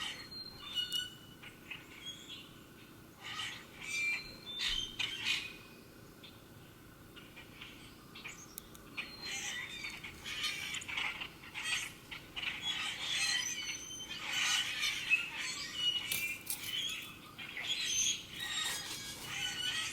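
Small birds chirping and calling in short, high, overlapping notes, scattered at first and much busier from about halfway through.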